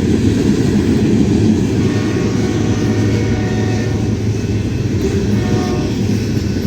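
Train running past, a steady, heavy low rumble of locomotive engine and wheels on the rails that holds at an even level throughout.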